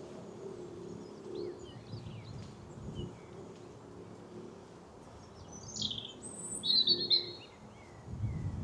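Small songbird singing a short, loud phrase about six seconds in: a high sweep falling in pitch, then a rapid trill. Fainter bird chirps come before it, over a low steady hum.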